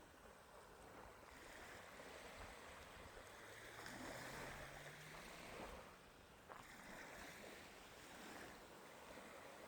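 Faint ocean waves washing on the shore, swelling and easing twice. A faint low hum runs for a couple of seconds in the middle.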